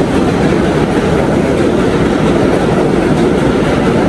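New York City subway train running, a steady loud noise with no breaks.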